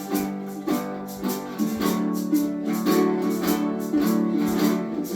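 A group of ukuleles strumming in steady rhythm, with a shaker keeping time and held notes sounding underneath.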